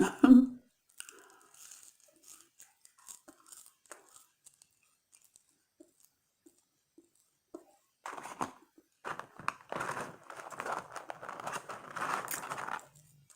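Paper fast-food fry packaging crinkling and tearing close to the microphone. After scattered faint ticks, a dense run of crackling starts about eight seconds in and lasts several seconds.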